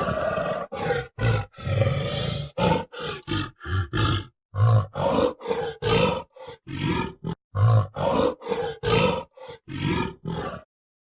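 Lion roaring: a rapid series of short, deep roars with brief silent gaps between them.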